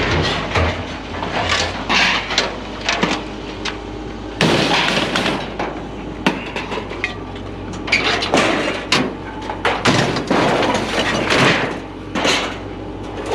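Scrap metal clattering and clanging as pieces are thrown onto a pile: many sharp, irregular impacts, some ringing, over a steady low hum.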